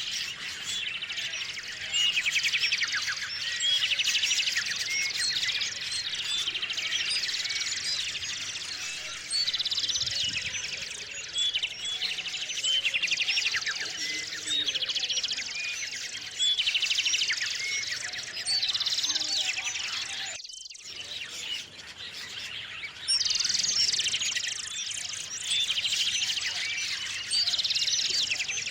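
Small songbirds singing and chirping, with repeated quick trilled phrases every couple of seconds, broken by a sudden brief silence about two-thirds of the way through.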